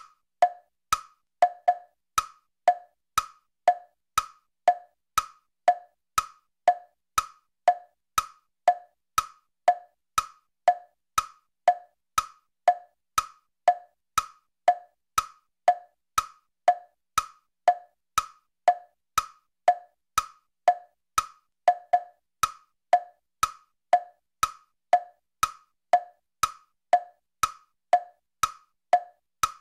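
Clock ticking steadily in an even tick-tock, a higher click alternating with a lower one, about two a second.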